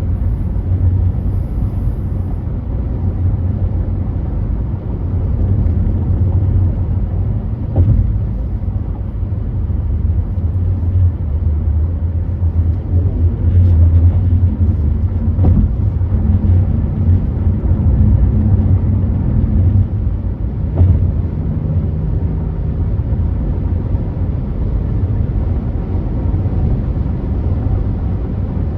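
Car driving at freeway speed: a steady low rumble of tyres and engine, with a few faint brief knocks.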